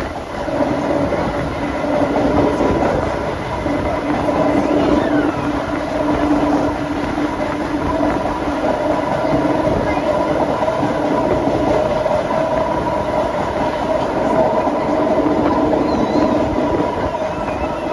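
Vintage BMT BU gate cars running along the line, heard from on board: a continuous rail rumble with a steady hum.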